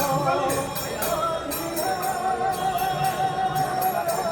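Hindu temple arati music: bells and small hand cymbals struck in a steady rhythm, about three strikes a second, under a long, slightly wavering held note.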